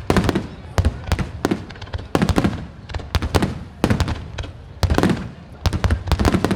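Fireworks display: aerial shells bursting in quick succession, several sharp bangs a second, each followed by a low, echoing rumble.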